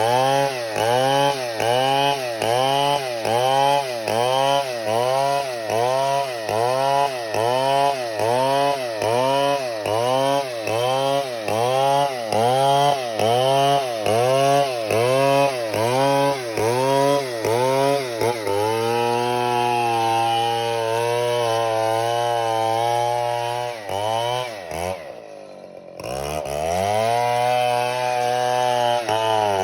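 Chainsaw cutting wood. For the first two-thirds its engine pitch sags and recovers about once a second, then it holds a steady high speed, drops off briefly about 25 seconds in, and revs up again.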